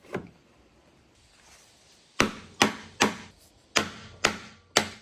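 Six sharp knocks of something striking wood, in two runs of three, about two a second, starting a couple of seconds in.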